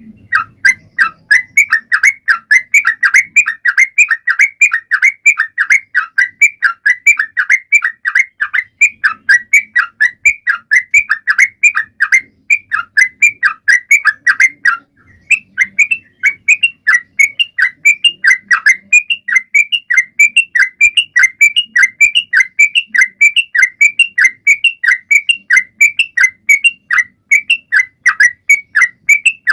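A trucuan songbird in full song: a fast, steady series of short downward-sliding chirps, about four a second, with one brief pause about halfway through.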